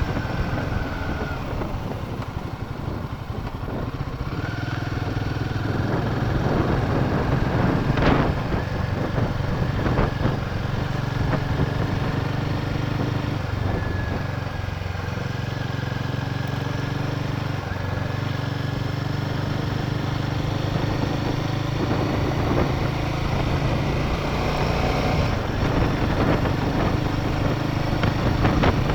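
Motorcycle engine running at a steady road speed, its pitch drifting slightly with the throttle. A single knock about a third of the way through.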